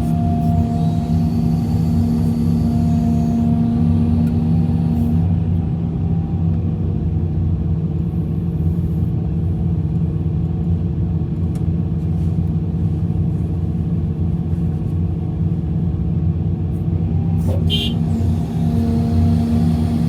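Large diesel engine of a Hitachi EX350LC excavator running steadily. In the first five seconds, and again near the end, a steady higher hum rises over the engine. A short click comes a couple of seconds before the end.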